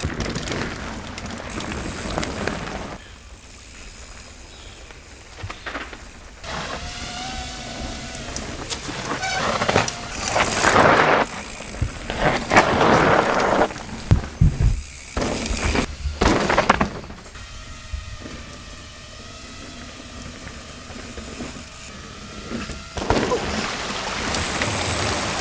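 Mountain bike ridden downhill over rough trail, with tyre and chassis noise that is loud and rough in stretches and quieter while coasting. Somewhere in the ride the tubeless tyre loses air, which the riders take for the tyre rolling off the rim and burping.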